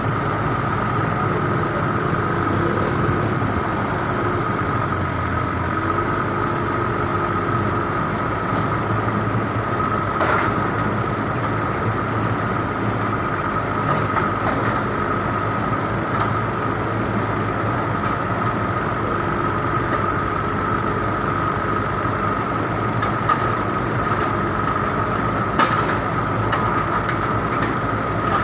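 A vehicle engine running steadily amid dense road noise, with a steady high tone and a few sharp clicks.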